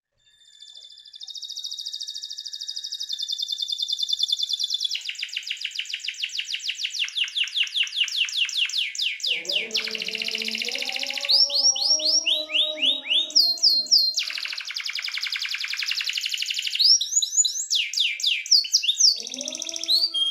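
Domestic canary singing a long, continuous song: held trills, then very fast repeated notes, then rising swept whistles, switching from one tour to the next every few seconds. From about halfway, lower pitched tones sound underneath the song.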